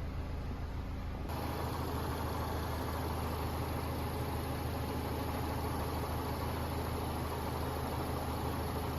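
Mazda CX-30's Skyactiv-X 2.0-litre four-cylinder petrol engine idling steadily. About a second in the sound changes abruptly to a fuller, steady tone with no revving.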